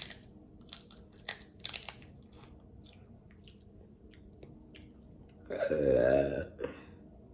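A person eating, with a few short wet clicks and smacks of chewing, then about five and a half seconds in a loud burp lasting about a second.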